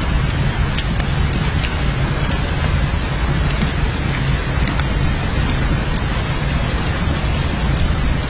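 Steady heavy rain, with scattered individual drops ticking over a constant hiss and a strong low rumble underneath.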